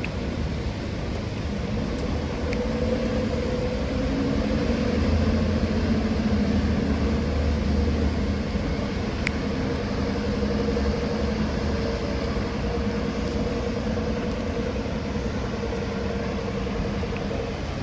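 A motor vehicle's engine running close by: a steady hum with a deeper rumble that swells about four seconds in and eases off about four seconds later, over steady street noise.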